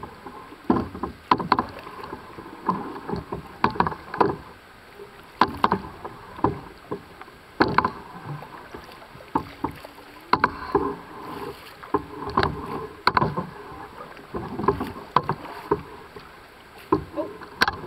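Canoe being paddled: paddle strokes in the water with many irregular sharp knocks, a few a second, typical of paddles striking the canoe's hull.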